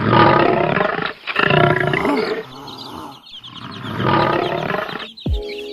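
A lion roaring three times in long, loud, rough roars, with faint high chick chirping in the gaps. Near the end music starts, with steady tones and low falling booms.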